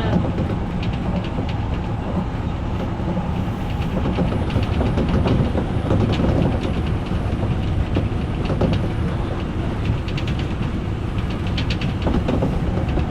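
Odakyu electric commuter train running along the track, heard from inside the leading car: a steady rumble with wheels clicking over rail joints now and then.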